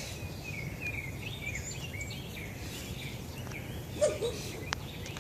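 A small songbird chirping in a run of short, quick, slurred notes through the first few seconds, over steady low outdoor background noise.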